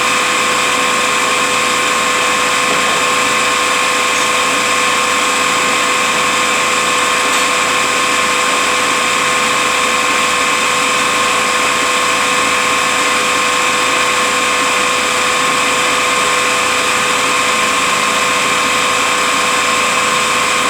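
Rebuilt Eaton Fuller FRO16210C ten-speed truck transmission spinning on a dyno test stand: a loud, steady gear whine made of several high tones over a mechanical hiss, holding constant without any change in speed.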